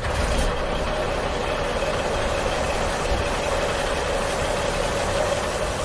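Steady engine-like running noise, a low rumble with a faint steady hum, as the toy monster truck drives on.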